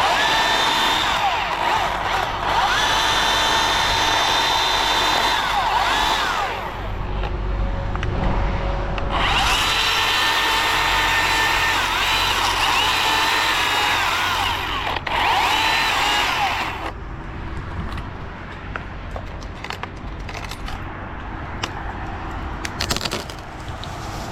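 Battery-powered chainsaw running in two long bursts of several seconds each, a steady high motor whine that slides down in pitch each time the trigger is released. After that, quieter scattered knocks and rustling.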